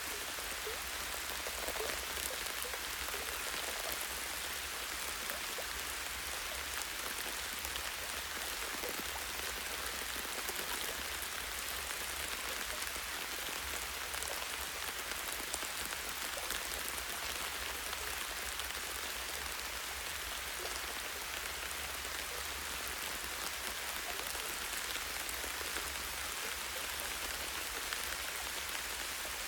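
Light rain falling steadily on tree branches and leaves: an even hiss with many small drop ticks, unchanging throughout.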